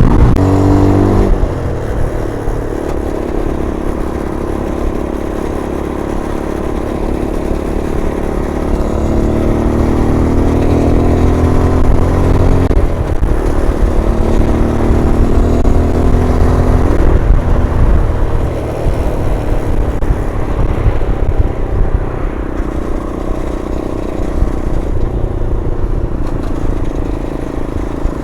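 MGB ATX 125cc adventure motorcycle's engine running under way, with wind rush on the on-board microphone. The engine note climbs twice and drops back after each climb, about halfway through and again a few seconds later.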